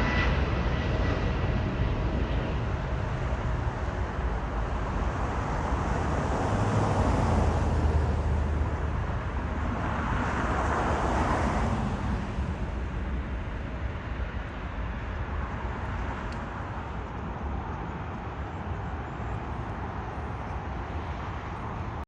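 Jet airliner engine rumble, swelling about halfway through and then slowly fading.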